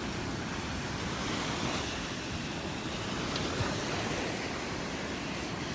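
Gulf of Mexico surf washing steadily onto the beach.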